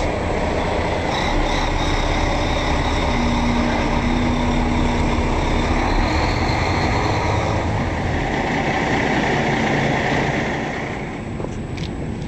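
Truck engine running with a steady rumble, the level dropping off about eleven seconds in.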